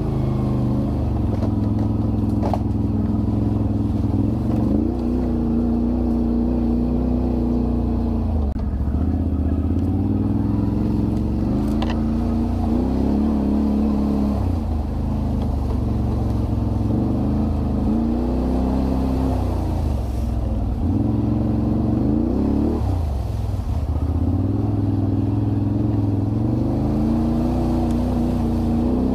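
Can-Am Renegade 1000 ATV's V-twin engine running while riding, its pitch rising and falling again and again as the throttle is opened and eased off.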